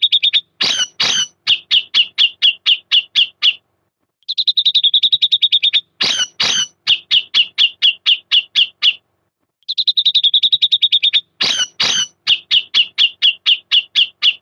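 Cucak jenggot (grey-cheeked bulbul) singing one repeated phrase three times: a fast high trill, two loud sharp notes, then a quick run of about nine evenly spaced chirps.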